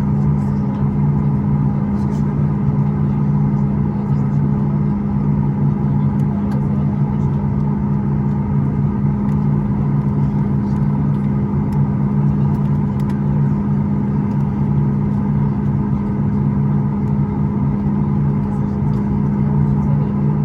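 Steady drone heard inside the cabin of a Boeing 737 MAX 8 airliner: its CFM LEAP-1B jet engines running, with constant hum tones over a rushing noise and no change in pitch.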